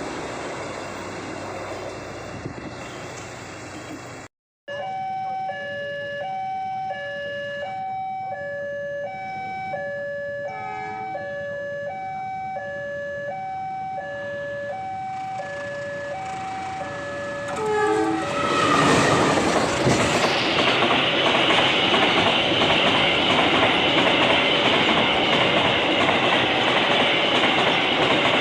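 A level-crossing warning signal sounds a steady alternating two-tone chime, high and low notes trading about once a second. Roughly two-thirds of the way in, a train passes close by and its loud wheel and engine noise drowns out the chime. The opening seconds hold train noise that cuts off abruptly.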